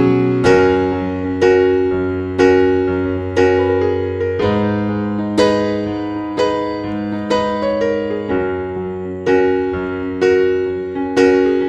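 Background piano music: a slow, gentle melody with a note struck about once a second over held bass notes.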